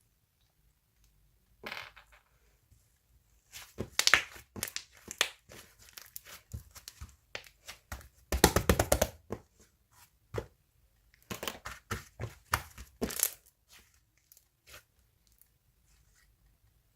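Crinkling and tearing handling noises in irregular bursts full of sharp crackles, with the longest, loudest burst about eight and a half seconds in and another run about eleven to thirteen seconds in.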